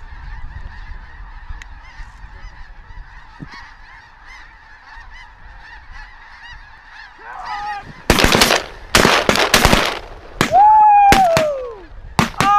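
A large flock of snow geese calling all at once, a dense steady clamour as they circle down. From about eight seconds in, shotguns open up in a rapid string of blasts from several guns, with a few single goose honks between the shots and two more shots near the end.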